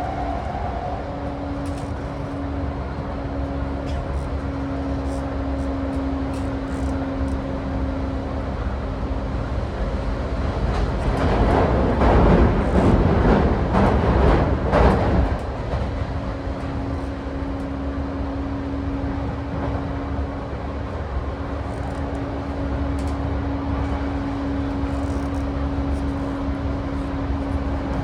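Running noise inside an E235-1000 series electric commuter train's motor car, fitted with a Mitsubishi full-SiC MOSFET VVVF inverter: a low rumble of wheels on rail under a steady motor hum. About eleven seconds in, a louder rushing noise swells for about four seconds, then the steady hum returns.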